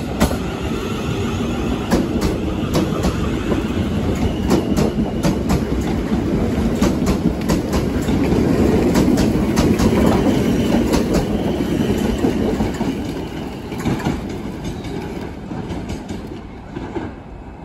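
Passenger train running past close by, its wheels clicking over rail joints and pointwork. The rumble builds to its loudest about halfway through, then fades as the train moves away.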